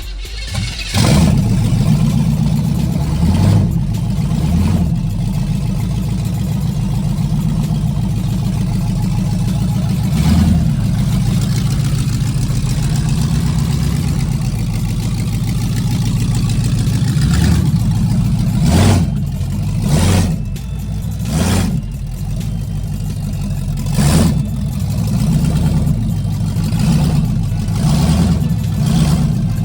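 1978 Chevy Nova's engine running after a no-crank, no-start repair, revved in short blips now and then.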